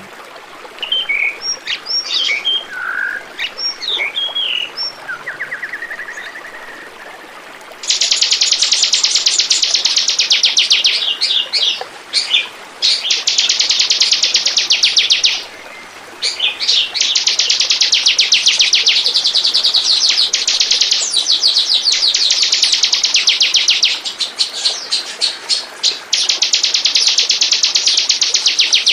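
Ciblek (bar-winged prinia) song: a few scattered high chirps at first, then from about eight seconds in a loud, very fast, high chattering trill that runs on with only brief breaks.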